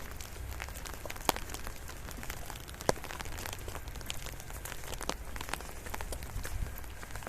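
Rain falling, with scattered sharp ticks of single drops, two of them louder, about a second in and near three seconds in. A steady low rumble runs underneath.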